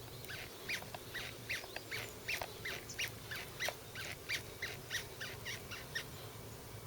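Skateboard truck squeaking as the deck is rocked from side to side: a steady run of short, rising-and-falling squeaks, about two or three a second. This is the 'gii-gii' squeak that comes from tilting the deck on a dry truck.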